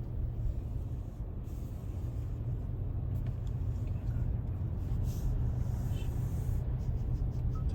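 Steady low rumble of a road vehicle in motion, heard from on board.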